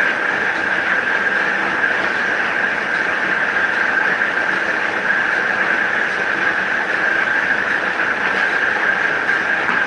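Motor of a DQ 201 electric paper guillotine running steadily: an even mechanical whir with a high, steady tone, and no cutting strokes.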